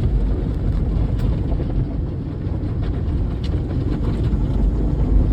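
Automatic tunnel car wash working over the car, its spinning brushes and water heard from inside the cabin as a loud, steady low rumble with a few faint ticks.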